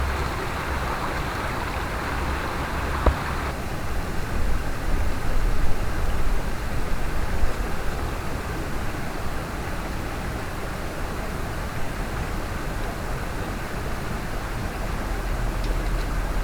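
Mountain stream rushing steadily over rocks, with one sharp click about three seconds in.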